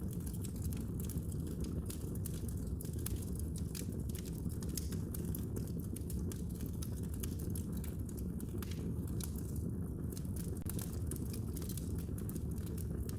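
Wood fire burning in a fireplace, crackling with many small, irregular sharp pops over a steady low rumble of the flames.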